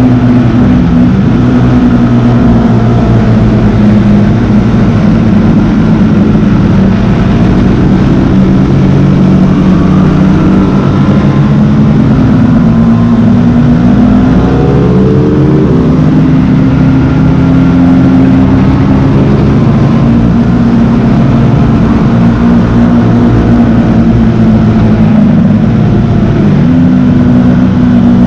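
Sports motorcycle engine at speed on a race track, its note falling and climbing again and again as the rider shifts gears and brakes for corners, under steady wind noise.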